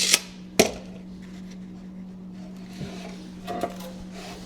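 Wooden stakes knocking as they are handled: two sharp knocks in the first second, then a few lighter clicks, over a steady low hum.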